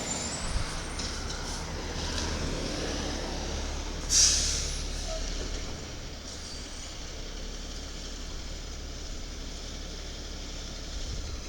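Side-loader garbage truck's diesel engine running with a low rumble, its air brakes letting out one sharp hiss about four seconds in; the engine sound eases off after that.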